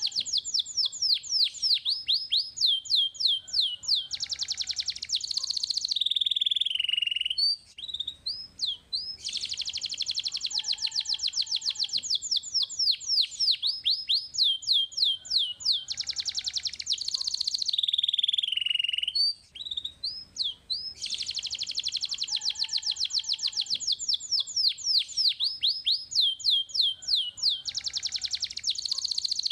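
Canary singing a long song phrase: a rapid, high trill, then slower falling notes and a lower sweeping note. The same phrase repeats about three times with brief pauses between.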